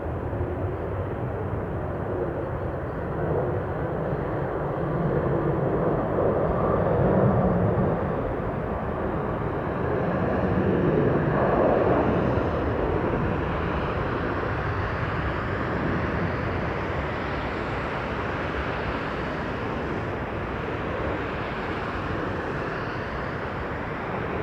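Passenger jet airliner on landing approach, its engine noise swelling to a peak between about five and twelve seconds in, then easing off into a steady rumble.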